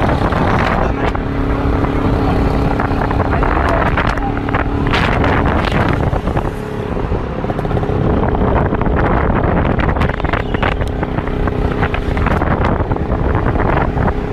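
Car on the move: steady engine and road noise with wind buffeting the microphone.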